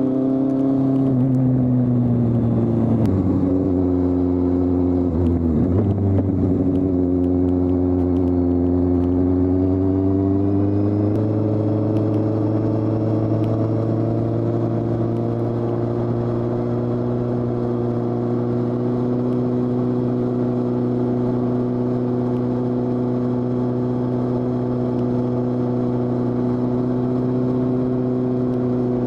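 2015 Kawasaki Z800's inline-four engine running while the bike is ridden. The revs fall and waver a few seconds in, climb again, and hold steady from about eleven seconds on.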